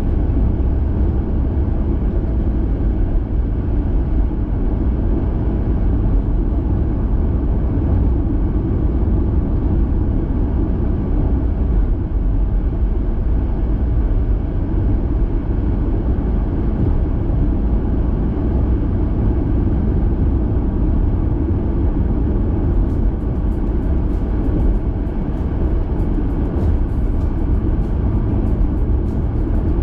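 Steady low rumble of a car driving, with road and engine noise heard inside the cabin. Faint clicks come in over the last several seconds.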